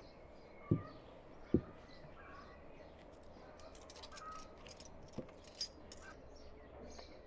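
Outdoor ambience with birds chirping, and a few soft knocks: two about a second in and one about five seconds in.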